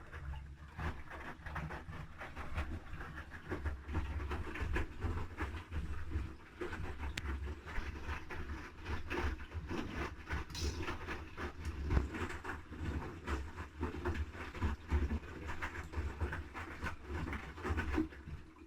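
Haier I-Pro Series 7 front-loading washing machine's drum turning the load during the wash: a low motor rumble with laundry and water sloshing and falling inside the drum. The tumble stops near the end, as the drum pauses before reversing.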